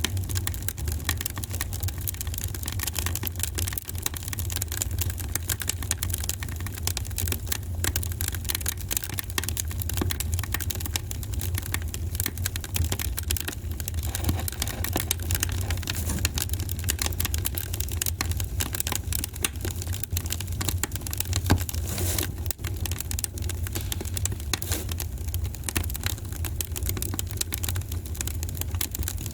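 Wood fire burning in a fireplace, crackling with a dense run of small pops and snaps over a steady low rumble.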